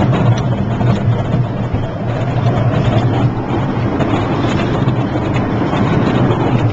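Park miniature train running steadily along its track, heard from a passenger seat: a constant low engine drone with rolling rumble and rattle.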